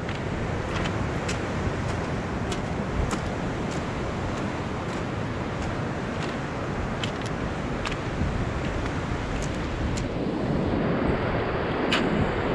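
Pacific Ocean surf breaking on the beach: a steady rush of waves, with wind buffeting the microphone and a few light clicks scattered through it.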